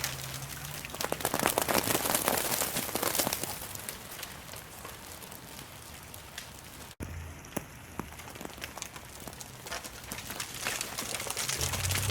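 Rain falling: a dense pattering of drops, heaviest in the first few seconds. There is a momentary dropout about seven seconds in, and a low hum comes in near the end.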